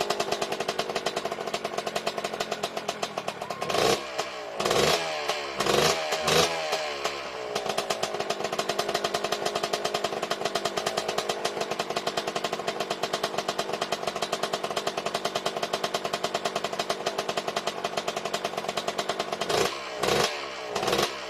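Yamaha Blaster's 195 cc air-cooled two-stroke single running at a fast, steady idle. The throttle is blipped several times about four seconds in and twice more near the end.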